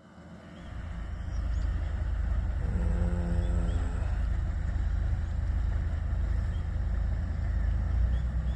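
Motorboat engine running steadily with a deep low rumble, fading in at the start, and a brief pitched hum about three seconds in.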